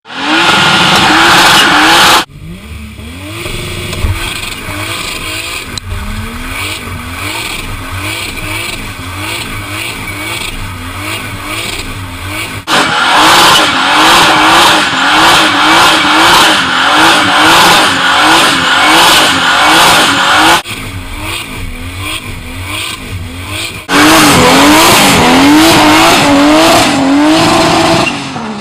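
A car engine revving up and falling back over and over, about once a second, with tyre squeal, as the car is driven sideways in a drift. Very loud stretches alternate abruptly with quieter ones.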